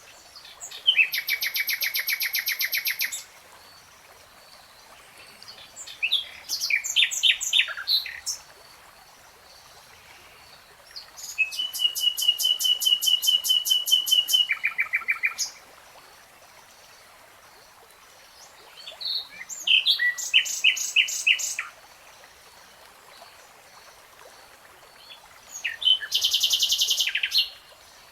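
A nightingale singing: five separate song phrases, each a fast, high trill of repeated notes lasting two to four seconds, with pauses of a few seconds between them.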